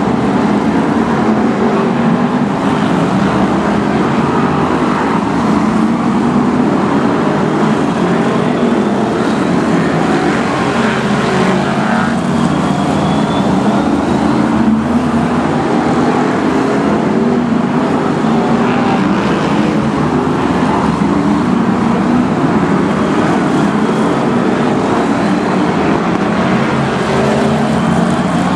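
A pack of BriSCA F1 stock cars racing, their V8 engines running hard together in a loud, continuous din with faint rising and falling engine notes over the top.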